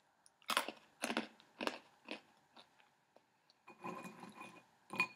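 Hard pretzels being chewed up close: about five sharp crunches roughly half a second apart, growing fainter. Near the end comes a brief rustle of pretzels as a hand picks through a glass bowl of them.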